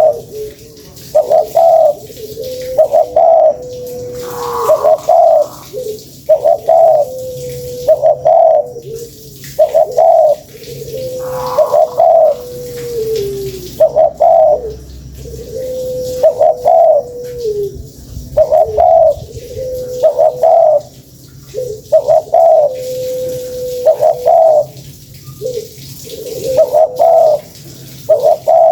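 Spotted dove (tekukur) cooing over and over, a lure call: short coo notes followed by a long drawn-out note that drops in pitch at its end, repeated about every two seconds.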